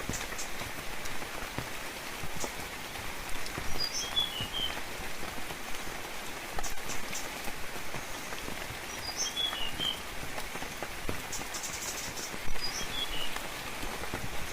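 Steady rainfall with a small bird calling a short phrase of a few high chirps three times, spaced a few seconds apart.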